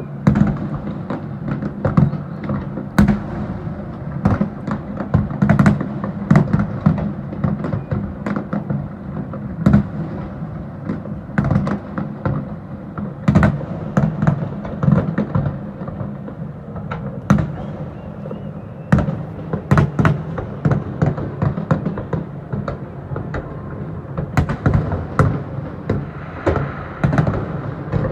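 Big fireworks display going off: a continuous run of sharp bangs and booms, several a second, coming in heavier volleys every few seconds.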